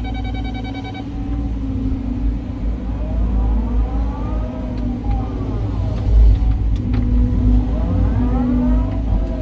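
Caterpillar 323 hydraulic excavator working: the diesel engine runs steadily under load with a deep rumble, and a whine rises and falls twice as the hydraulics work the boom and bucket. A pulsing high tone stops about a second in.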